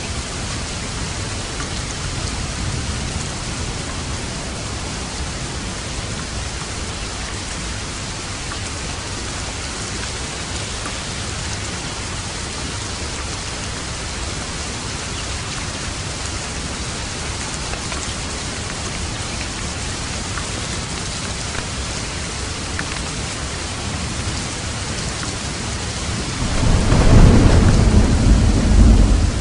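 Steady heavy rain hissing, with a low rumble of thunder swelling up near the end and fading after a couple of seconds.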